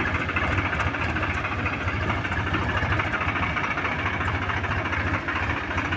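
Swaraj tractor's diesel engine running steadily with a fast, even low chugging.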